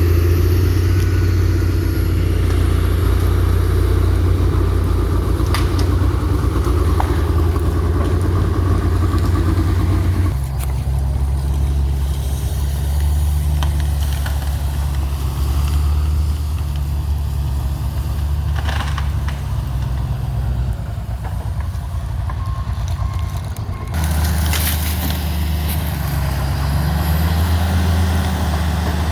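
Diesel engine of a John Deere log skidder running with a steady low drone. Its pitch and level change abruptly about ten seconds in and again near the end, with a few faint knocks in between.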